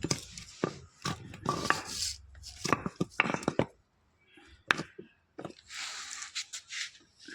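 Irregular sharp knocks and metallic clicks of tools and car suspension parts being handled, with a stretch of hiss near the end.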